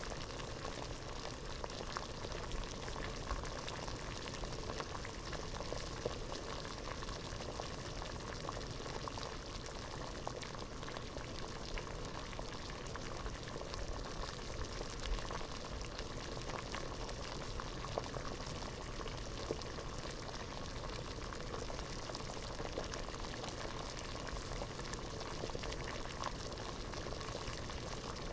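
Water boiling steadily in a pot: a dense, even bubbling scattered with many small pops.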